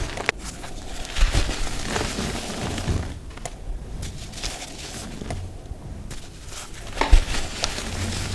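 Blocks of dyed gym chalk crunching and crumbling as they are crushed, with irregular crackles, a few sharp cracks (the loudest about seven seconds in) and softer powdery stretches between.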